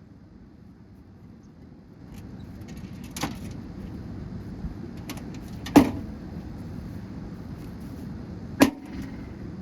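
Blows on the casing of a gutted microwave oven being smashed apart: three sharp impacts a few seconds apart, the last two the loudest, with smaller clicks between. A steady background noise comes up about two seconds in.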